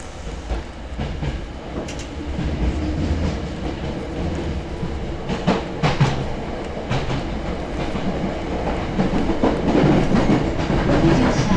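Hankyu 6300 series electric train running, heard from inside the car: a steady rumble of wheels on rail, with sharp clicks over the rail joints about halfway through. It grows louder near the end.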